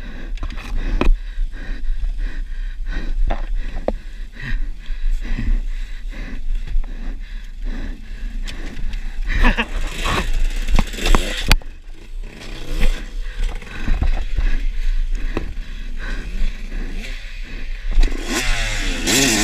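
Dirt bike on a rough trail: repeated knocks, clatter and scraping over a low rumble. Near the end the motorcycle engine comes in loud and revs, its pitch rising and falling.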